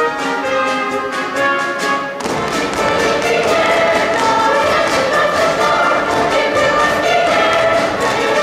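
Live ensemble orchestra playing a lively dance tune for the stage number, with thuds and taps from the dancers' feet. The music turns fuller and louder about two seconds in.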